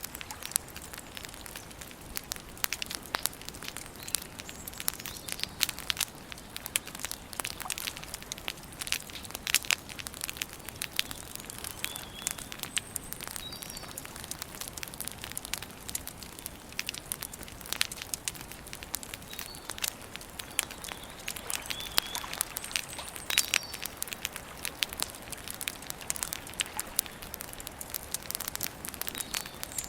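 Campfire crackling: a steady stream of small, sharp snaps and pops from the burning wood.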